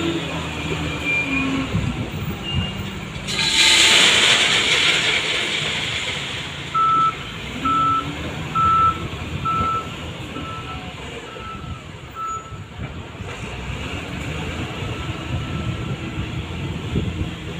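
A train of tank wagons being shunted backward, with a steady low rumble of the diesel locomotive. A loud hiss of released air comes about three seconds in, then seven short, high reversing-warning beeps sound about once a second.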